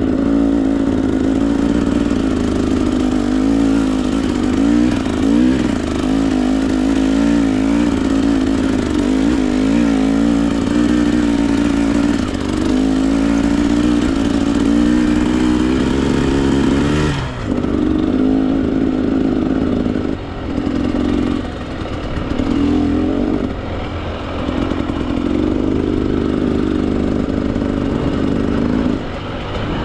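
Husqvarna TE 300 two-stroke dirt bike engine running on the trail, its pitch rising and falling constantly with the throttle. About halfway through the sound turns duller, and the engine then comes in short stretches with brief drops between them as the throttle is opened and shut.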